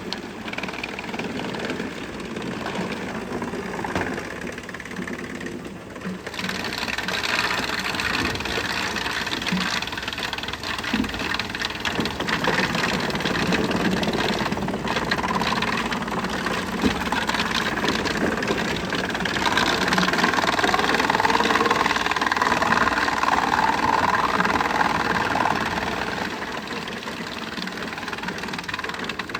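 Wood chipper running, its engine and machinery going steadily, growing louder for several seconds about two-thirds of the way through.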